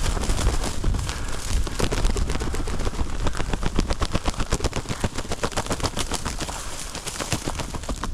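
Rapid, dense crackling and snapping of dry field cover underfoot as a hunter walks through it.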